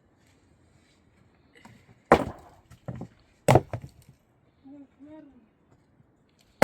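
Heavy chopping blows: three sharp strikes in quick succession, the first and third loudest, then another strike near the end. A brief pitched sound comes between them.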